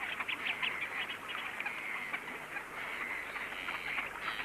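Waterbirds calling at a lake, a dense, continuous chatter of short, quick calls.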